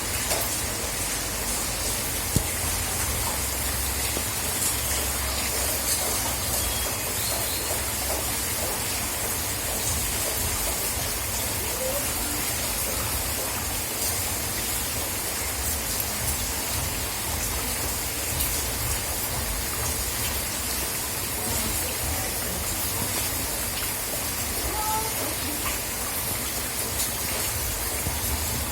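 Steady rain falling, an even hiss with no letup, with a single sharp tap about two seconds in.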